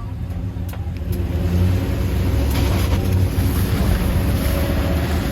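Vehicle engine running and revving under load as it pushes through deep snow, louder from about a second and a half in. Two short knocks about a second in.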